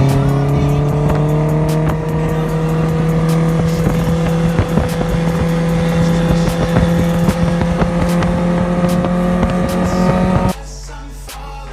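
Superbike engine through a loud aftermarket exhaust, its note rising slowly and steadily, with sharp crackles throughout; it cuts off abruptly near the end, leaving quieter music.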